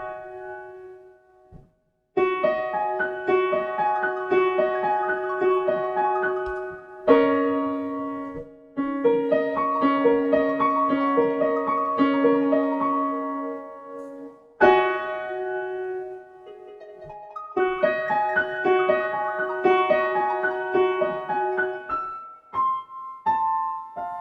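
Piano playing a simple children's-song melody over steady repeated accompaniment notes, in phrases with short breaks between them and a last few notes left to ring out near the end.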